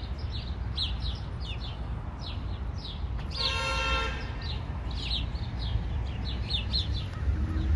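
Small birds chirping over and over, above a steady low rumble. About three and a half seconds in comes one brief honk, lasting under a second.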